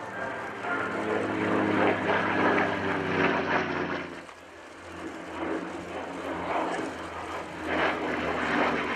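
Piston-engined propeller fighter aircraft flying past, its engine note dropping in pitch as it goes by. The sound dips about four seconds in, then the engine drone carries on.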